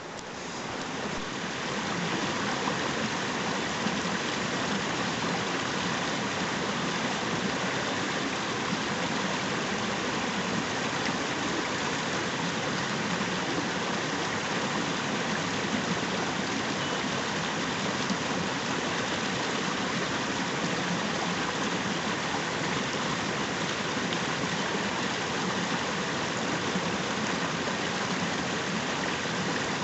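A river's flowing water rushing steadily, building over the first couple of seconds and then holding level.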